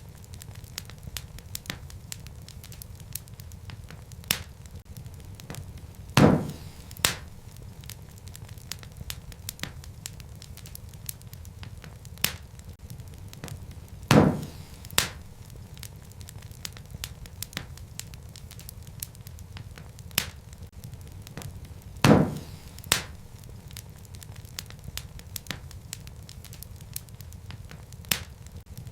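Wood fire burning in a fireplace: a steady low rumble of flames with scattered soft crackles and sharp pops from the burning logs. The loudest pops come about every eight seconds.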